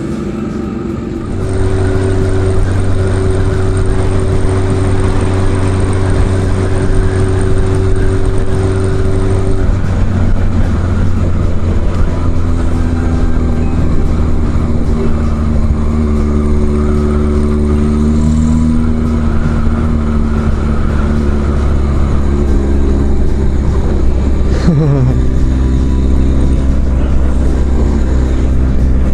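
A 1975 Kawasaki Z1's air-cooled inline-four, breathing through a four-into-one collector exhaust, running under way. It gets louder as it pulls away about a second in, then holds a steady engine note that changes pitch with the gears. Its pitch drops sharply about three-quarters of the way through, then it picks up again.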